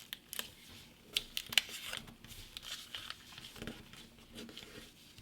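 A sheet of printer paper being handled and folded: soft rustling with scattered sharp crinkles and creasing clicks as a reverse fold is pressed in.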